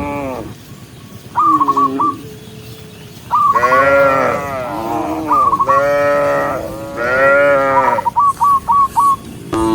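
Cattle mooing over and over: several long, drawn-out moos follow one another, some running into the next. Near the end there is a quick run of short high-pitched chirping notes.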